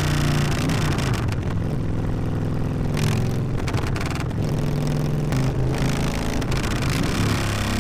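Harley-Davidson V-twin motorcycle exhaust running loud while riding, its note shifting a little with the throttle.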